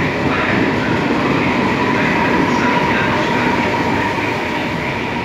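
Regional passenger train's coaches and electric locomotive rolling past close by as it pulls out of the station: a steady rolling rumble with a thin steady whine, easing slightly near the end.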